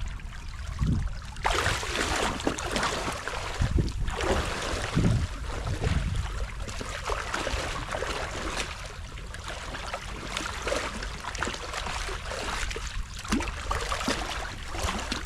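Creek water rushing and trickling through a freshly breached beaver dam. It gets suddenly louder about a second and a half in, with a few low thumps in the first half.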